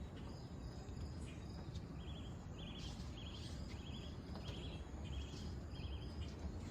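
An insect chirping in short pulsed chirps, each a quick run of pulses, repeated about every two-thirds of a second from about two seconds in, over a steady low rumble.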